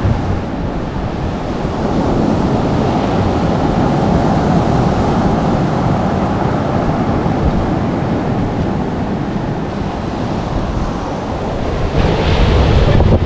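Steady, loud rushing noise with a choppy low rumble, typical of wind buffeting an outdoor microphone; the sound brightens with more hiss about twelve seconds in.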